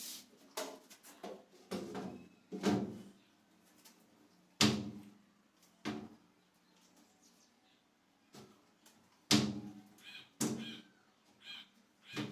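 Irregular wooden knocks and thuds as a wooden cabinet and its doors are worked on. There are about a dozen single knocks, each with a short hollow ring, and two louder ones about four and a half and nine seconds in.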